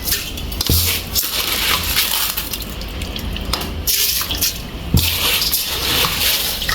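Water pouring and running into a cooking pot as washed rice is put on to cook, with a dull knock of the pot about a second in and another about five seconds in.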